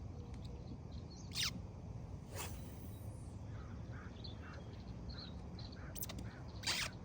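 Quiet outdoor ambience: a steady low rumble, four brief sharp swishes or clicks, and faint chirps repeating about every half second in the middle, likely a bird.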